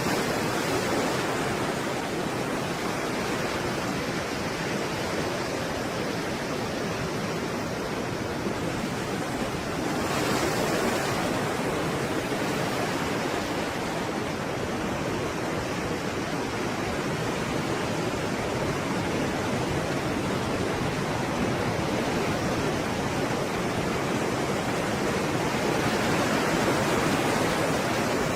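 Stormy sea waves crashing and rushing in a continuous roar of surf, with a wave surging in about ten seconds in and another building near the end.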